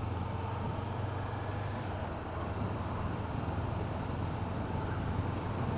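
Steady wind noise rushing past a rider's open helmet visor, with the 2017 Honda CB500F's parallel-twin engine running low and even underneath at a steady cruising speed.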